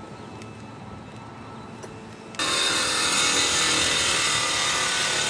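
Saw cutting through a car's metal exhaust pipe, starting suddenly about two and a half seconds in and running steadily and loudly to the end. The blade is worn, which makes the cut slow going.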